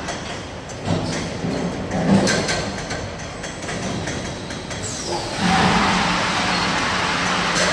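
A high-pressure washing machine for 5-gallon bottles running, with a steady motor hum and a few clunks from its mechanism. About five and a half seconds in, a loud, even rushing hiss starts and holds, as the high-pressure wash comes on.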